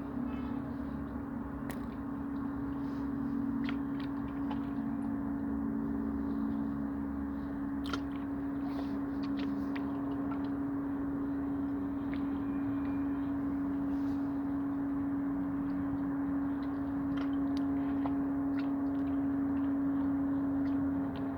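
A steady low hum holding one pitch throughout, over an even wash of noise.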